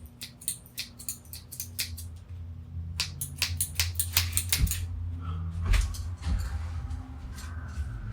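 A rapid series of sharp clicks and cracks as a plastic USB wall adapter is cut and pried apart by hand. The clicks are densest in the first four and a half seconds, then thin out, over a low hum.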